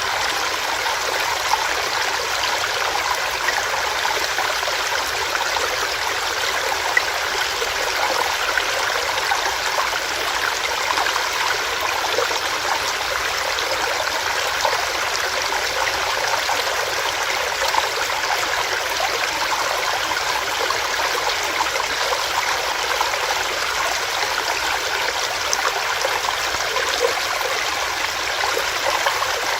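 Small stream running over rocks: a steady, even rush of water with small splashes and burbles throughout.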